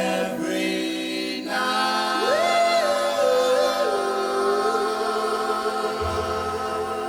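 A 1950s doo-wop vocal group holds the song's closing chord in close harmony, while one voice slides up and then steps down over it. A low bass note comes in near the end.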